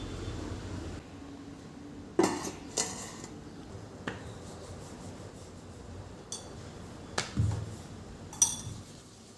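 Hard household items clinking and knocking as they are handled and set down, about six sharp separate knocks spread over the stretch. A low hum stops about a second in.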